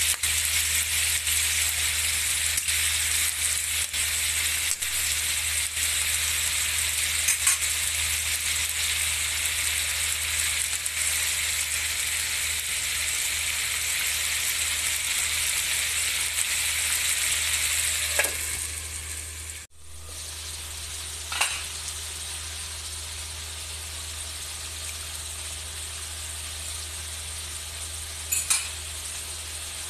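Chicken pieces with onion and tomato sizzling as they sauté in a metal wok. About 19 seconds in the sizzle fades and breaks off, giving way to a quieter steady hiss with a couple of light clicks.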